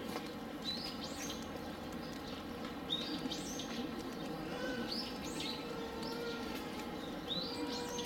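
A small bird chirping repeatedly: short high calls that sweep up and drop off, coming in pairs about every two seconds, over a steady background noise.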